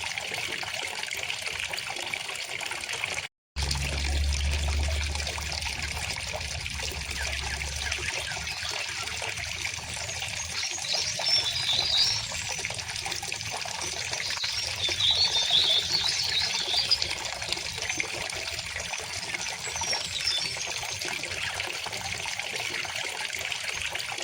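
River water flowing and trickling steadily, with a few small bird chirps high above the water around the middle. The sound drops out for a split second about three and a half seconds in.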